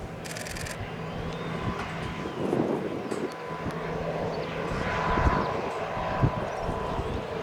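Jet aircraft engines running at an airport: a steady rush of engine noise with a thin whine, swelling twice.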